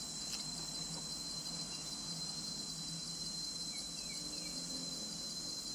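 Insects chirring steadily in the forest, a continuous high-pitched drone, with a few faint bird chirps about four seconds in.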